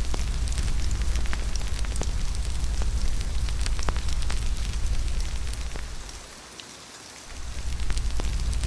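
Steady rain mixed with a crackling fire, with sharp pops scattered throughout. Under them runs a deep rumble that fades out about six seconds in and comes back about a second later.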